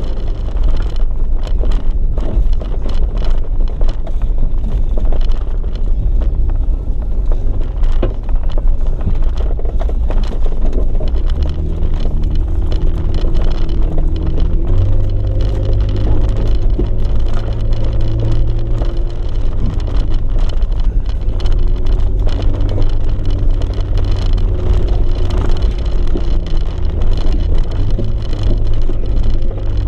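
Jeep Wrangler JKU's V6 engine running at low speed while crawling a bumpy, rocky dirt trail, a steady low rumble. The engine note rises and falls with the throttle, climbing about twelve seconds in, again a few seconds later, and once more near the end.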